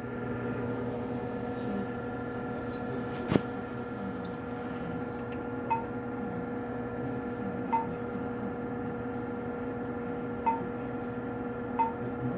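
A steady electrical machine hum with a few short, high electronic beeps every couple of seconds, and one sharp click about three seconds in.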